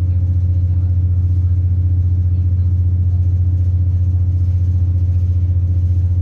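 Class 170 Turbostar DMU heard from inside the carriage: the underfloor 13.6-litre MTU turbo diesel engine and running gear make a steady low drone with a fast, even pulse, holding constant speed.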